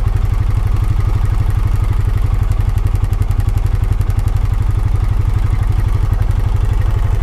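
A Honda Pioneer 520 side-by-side's single-cylinder engine running steadily at low revs, with an even low throb.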